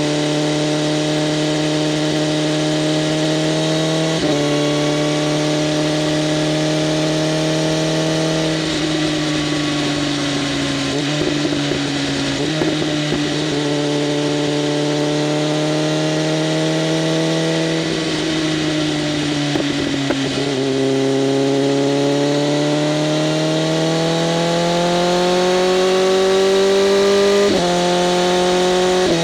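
BMW M1000RR's inline-four engine running through an SC-Project CRT exhaust with open flaps, under way on the road. The pitch shifts several times as the rider changes gear and opens and closes the throttle, with a long steady climb in revs in the latter part, over a haze of wind and road noise.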